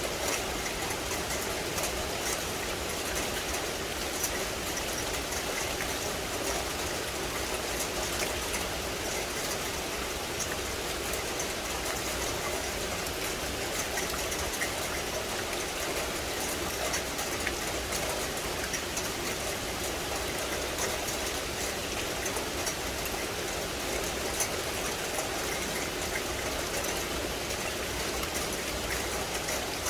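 Steady rain falling: an even hiss with many tiny drop ticks.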